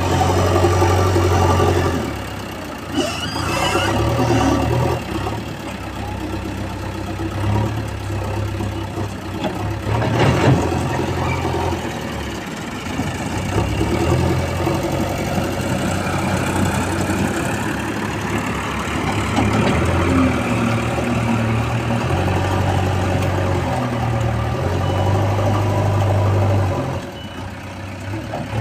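JCB 3DX Xtra backhoe loader's diesel engine working under load, revving up and easing off every few seconds as the loader works, with a sharp knock about ten seconds in.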